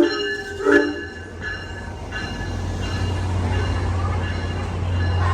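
Train horn: a long blast cuts off at the start and a short toot follows under a second in, then the low steady rumble of the locomotive, slowly getting louder.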